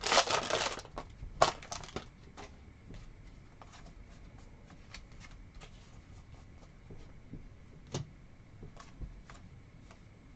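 A trading-card pack's foil wrapper crinkling and tearing for about a second, then quiet handling of cards with scattered faint clicks and slides.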